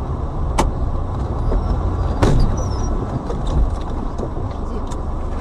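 Steady engine and road noise of a moving car heard from inside the cabin, with two sharp clicks about half a second and two seconds in.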